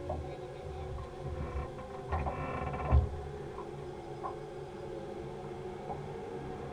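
Steady hum of a boat engine on the river, with a low thump about three seconds in.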